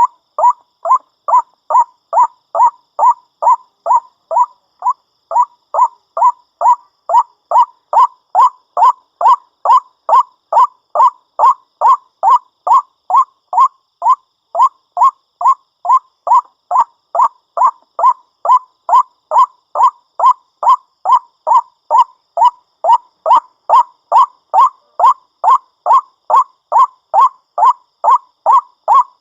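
White-breasted waterhen calling: an unbroken run of loud, evenly spaced short calls, about two a second.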